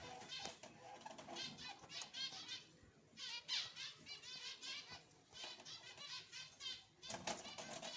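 Zebra finches calling: fast runs of short, high, repeated chirps that pause briefly a couple of times.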